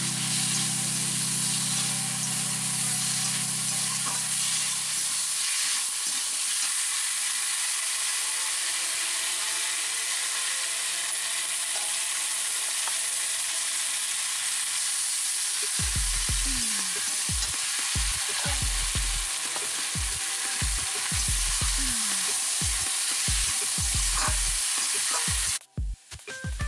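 Potato wedges sizzling as they fry in hot mustard oil in a metal wok, stirred now and then with a metal spatula; a steady hiss that cuts out briefly near the end.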